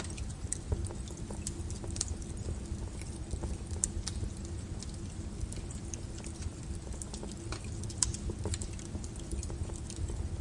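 Wood fire crackling: irregular sharp snaps over a low steady rumble, with one louder crack about eight seconds in.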